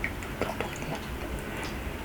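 A person chewing a mouthful of tteokbokki rice cake, with a few faint wet mouth clicks.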